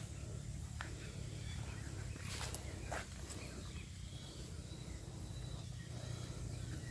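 Outdoor ambience: a steady low rumble with a few short high chirps and clicks, most of them about two and a half to three seconds in.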